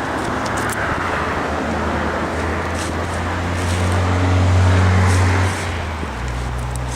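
A motor vehicle engine hums steadily with road noise. It swells about four to five seconds in, then eases off.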